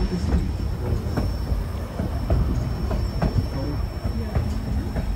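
Narrow-gauge railway passenger car running along the track: a steady low rumble with irregular knocks and clacks from the wheels and couplings.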